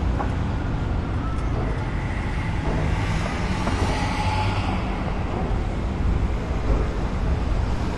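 Steady motor vehicle and road noise, a continuous low rumble with a hiss above it.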